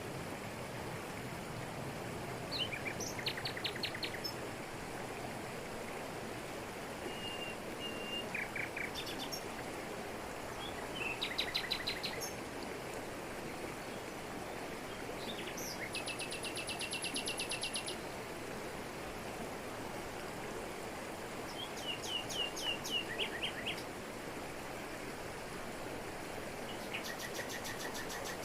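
Steady rushing of a jungle waterfall over rocks, with birds singing over it in short bursts of rapid repeated high notes, about six times, roughly every five seconds.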